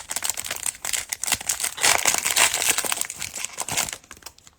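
Plastic cellophane wrapper of a Mosaic Basketball cello pack crinkling as it is torn open by hand, with dense crackling that stops about four seconds in.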